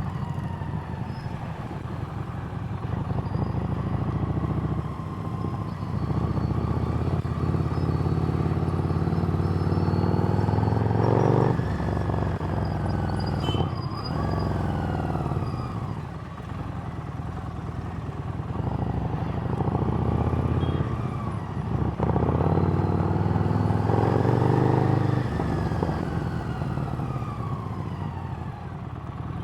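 Harley-Davidson Street Rod's 750 cc V-twin through a Screamin' Eagle exhaust, under way: the engine climbs in pitch as the throttle opens, then drops off sharply at a shift or on closing the throttle. This happens several times, between stretches of steady cruising.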